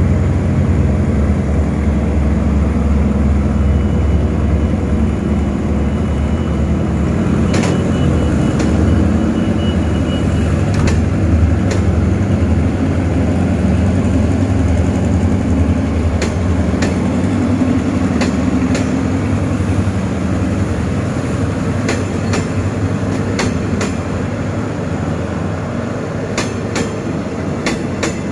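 Passenger coaches of a diesel-hauled express train rolling slowly past as it pulls out, with a steady rumble and sharp wheel clacks over the rail joints. The clacks start a few seconds in and come closer together toward the end.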